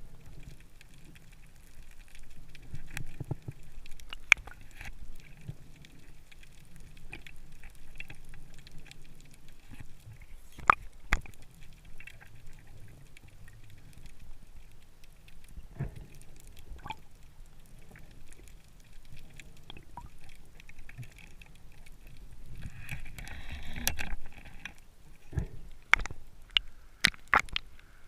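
Water sounds from the sea, a low uneven rush, with scattered sharp clicks and knocks. Near the end the rush grows louder and a quick run of clicks follows.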